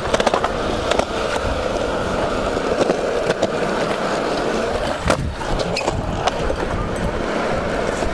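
Skateboard wheels rolling on pavement, with several sharp clacks of the board, the loudest about five seconds in.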